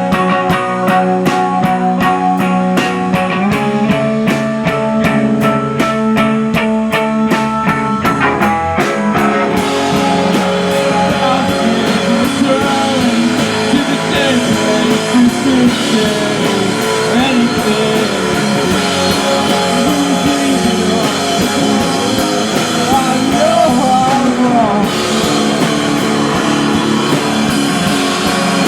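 Live rock band playing: electric guitars over a drum kit, with sustained ringing notes on an even pulse, then the music thickens into a denser, fuller section about nine seconds in.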